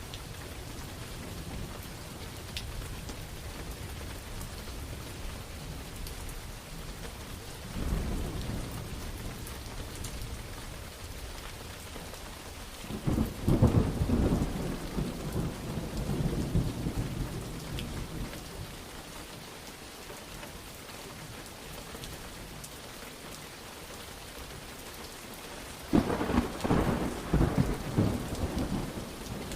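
Steady rain falling, with thunder rolling three times: a short rumble about 8 seconds in, a loud, long roll from about 13 seconds, and another loud roll near the end.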